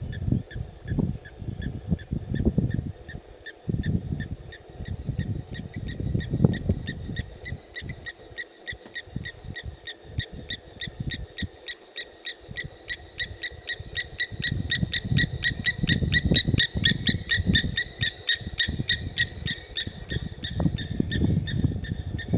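A high, rapidly repeated animal call: a steady train of short notes, several a second, louder in the second half. Irregular low rumbling sits beneath it, dropping away for a few seconds midway.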